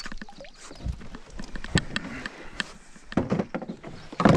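Irregular clicks and knocks in a boat as a just-landed smallmouth bass is handled, with a heavier thump near the end.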